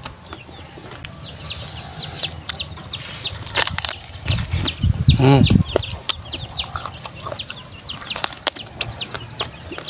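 Close-up biting and chewing of a raw round green eggplant: dense, irregular wet crunching and crackling. A short voiced sound comes about five seconds in.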